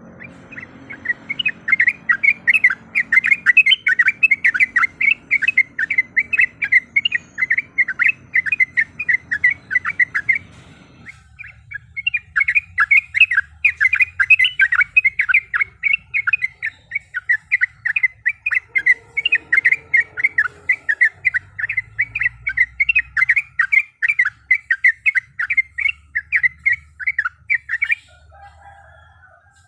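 Yellow-vented bulbul (trucuk) singing a long, fast rolling string of bubbly notes at about four to five a second, with a short break about ten seconds in. It is the excited territorial call used to provoke a rival.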